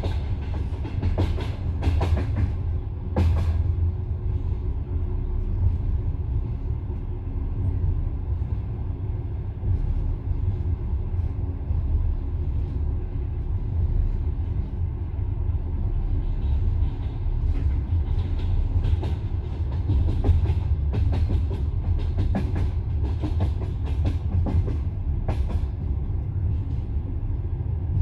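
Passenger train carriage running along the line, heard from inside the car: a steady low rumble of wheels on rails, with sharp clacks as the wheels cross rail joints, a few in the first seconds and more through the second half.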